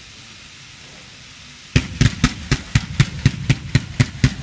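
Faint hiss of fireworks fountains. About two seconds in, a fireworks battery starts firing its shots in a rapid, even sequence, about four launches a second, each with a deep thump.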